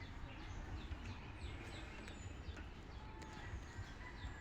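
Faint, steady run of short falling chirps from birds, about two to three a second, over a low rumble.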